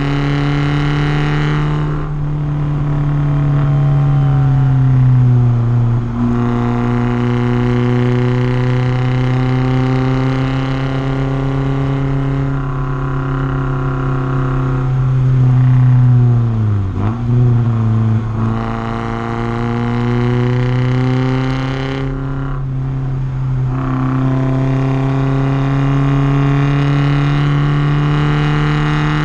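Porsche 944's four-cylinder engine driven hard on track: its pitch climbs steadily under acceleration and drops sharply at upshifts about 2 and 6 seconds in. Around 16 to 18 seconds the pitch falls with quick wavering blips, as on braking and downshifting, and then climbs again, with another shift about 23 seconds in.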